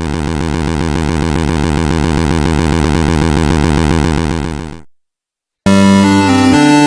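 Synthesized drone with a fast, even pulse, swelling slightly and then fading out about five seconds in. After a short silence, held synthesizer notes begin and step up and down in pitch.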